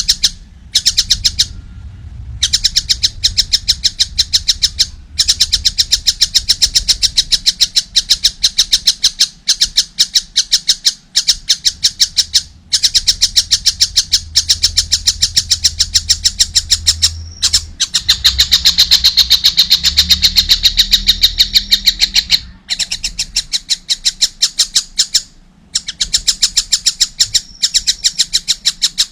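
Young kingfisher calling insistently: a fast run of sharp, harsh notes, several a second, in long bouts broken by brief pauses.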